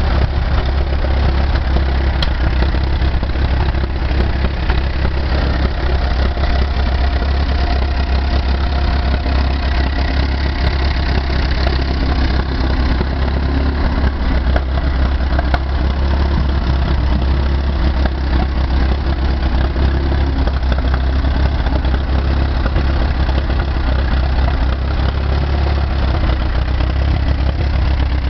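Case Model C tractor's four-cylinder engine running steadily at an even idle, with no change in speed.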